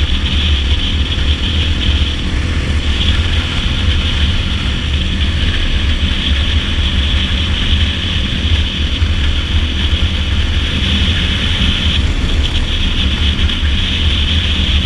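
Dirt bike running steadily at cruising speed on a paved highway, with heavy wind rumble on the microphone.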